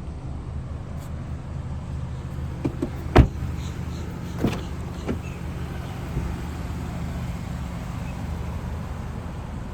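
A few sharp knocks and clunks from handling the car's body panels, the loudest about three seconds in, over a steady low hum.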